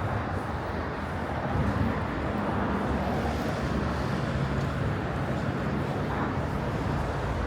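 Road traffic on a city boulevard: a steady low engine rumble with tyre hiss. The hiss swells briefly about halfway through as a vehicle passes.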